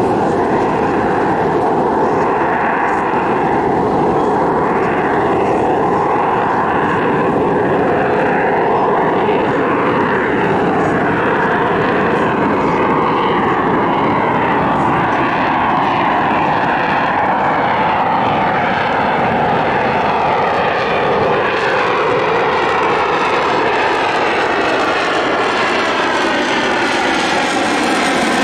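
Aircraft engine noise from an airshow plane in flight: a loud, steady drone whose pitch bands slowly shift, without a break.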